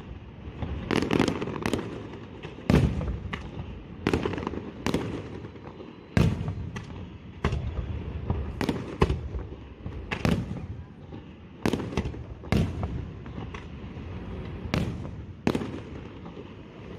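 Fireworks display: aerial shells bursting one after another at uneven intervals, about one sharp bang a second, each followed by a low rumble that dies away.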